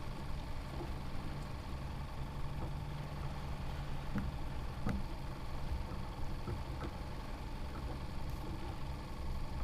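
A steady low motor hum, like an engine running at idle, with a few faint ticks over it.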